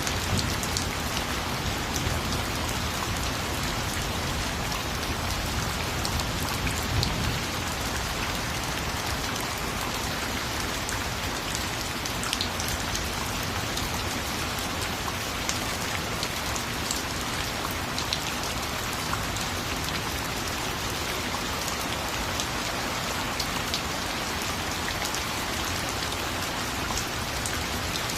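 Steady rain falling, with a constant hiss of rainfall and scattered sharper drops tapping on a surface.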